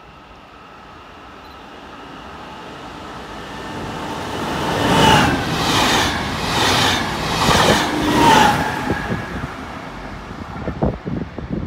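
Double-deck regional electric train passing close by: the noise builds as it approaches, swells into a run of whooshes as the cars go past with a brief squeal as the rush begins and another as it ends, then fades. A few short knocks come near the end.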